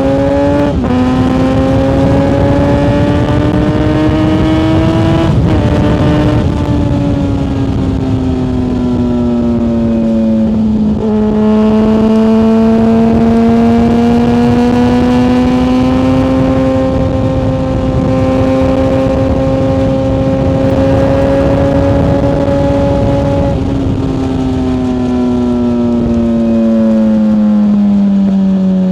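Yamaha FZ6 S 600 cc inline-four running under way on a ride. It pulls up through the revs with two quick gear changes in the first six seconds, then eases off. The engine holds steady revs through the middle and winds down again near the end.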